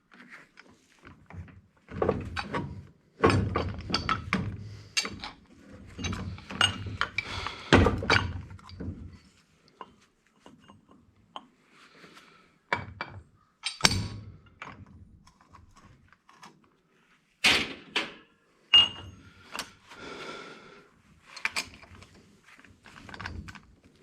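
Irregular knocks and clanks of hand tools and metal parts on a workbench while an old electric angle grinder is taken apart for scrap. The knocks come thick for several seconds, then as single sharp knocks spaced a few seconds apart.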